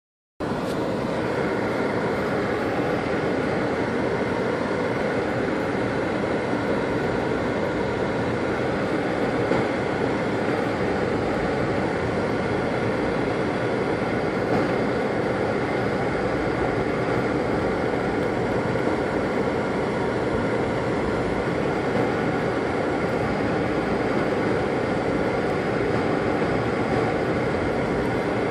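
Car driving on a road in a snowstorm: steady engine and tyre noise with a faint hum of steady tones, unchanging throughout.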